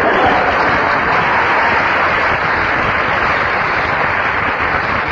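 Studio audience applauding, a steady, loud wash of clapping.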